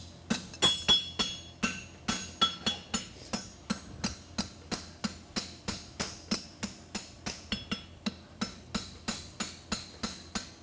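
Blacksmith's hammer striking hot concave steel bar on an anvil in a steady run of blows, about three a second, each with a short metallic ring, as the bar is flattened out.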